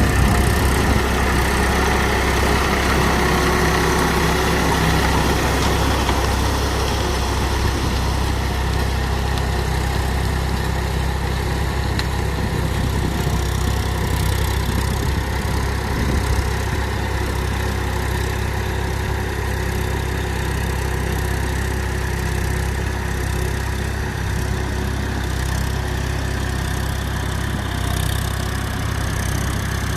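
Eicher four-wheel-drive tractor's diesel engine running steadily, a little louder over the first several seconds.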